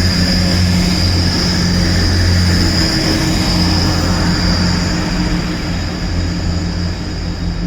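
A train running at the station platform: a steady low hum with a high whine over it, easing off slightly near the end.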